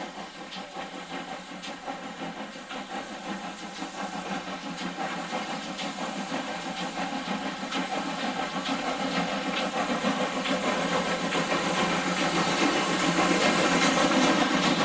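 Steam locomotive working, its exhaust beats and steam hiss coming in a steady rhythm of about two to three beats a second and growing steadily louder.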